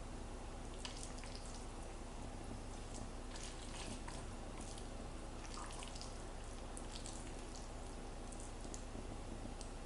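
Faint kitchen handling sounds: scattered light clicks and taps over a steady low hiss and hum.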